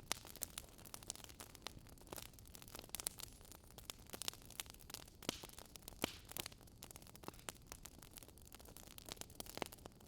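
Burning firewood crackling: irregular sharp pops and snaps over a faint low hiss.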